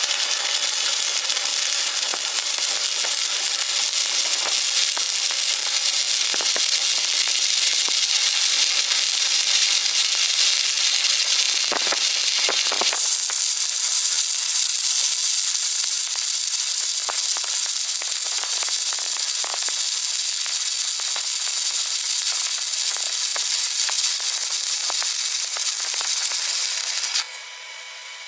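Electric arc welding: the arc crackles and hisses steadily as a bead is laid, then cuts off sharply near the end when the arc is broken.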